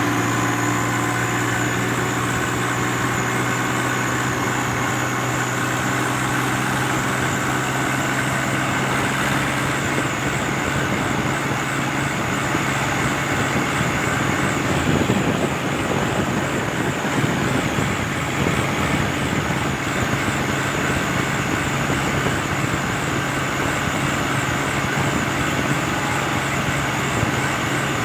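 Swaraj 744 XT tractor's diesel engine running steadily at speed, a constant drone with a thin, wavering high whine over it; the sound gets noisier from about halfway through.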